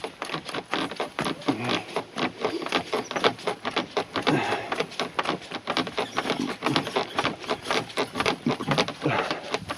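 Footsteps along a forest portage trail, with the steady creak, rub and knock of a shouldered kayak and pack swaying on the carrier as he walks.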